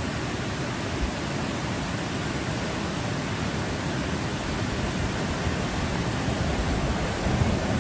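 Fast-flowing floodwater rushing, a steady, unbroken noise with a low rumble beneath it.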